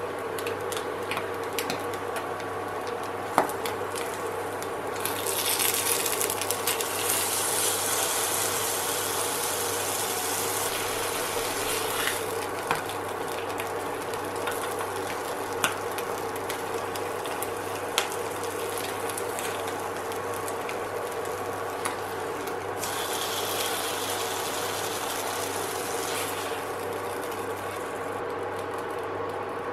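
An egg frying and sizzling in oil in a non-stick frying pan on an induction cooker, over the cooker's steady hum. The sizzle swells twice for several seconds, and a few sharp clicks of a spatula against the pan come through.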